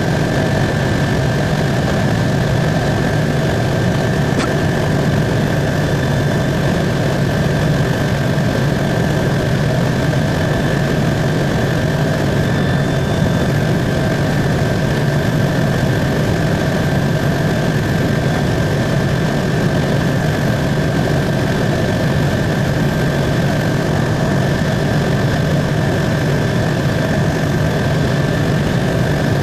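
Helicopter in cruise flight: steady engine and rotor noise heard from inside the cabin, with a constant low drone and a steady high whine.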